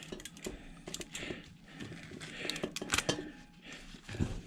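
Light, irregular clicks and taps of metal washing machine motor parts being handled and turned over.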